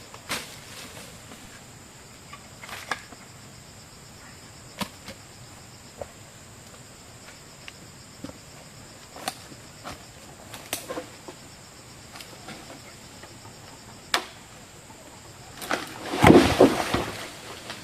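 Irregular sharp chopping strikes, most likely a blade cutting bamboo, one every second or few seconds, with a louder, longer rustling crash about sixteen seconds in.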